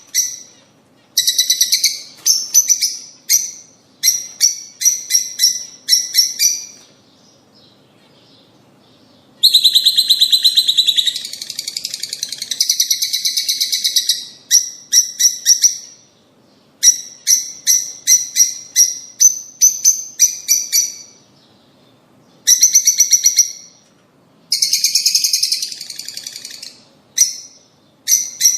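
Lovebirds, rosy-faced and Fischer's, calling: loud runs of sharp, rapidly repeated high chirps broken by short pauses. After a quiet gap of about two seconds, several seconds of dense, continuous chattering, then more runs of chirps.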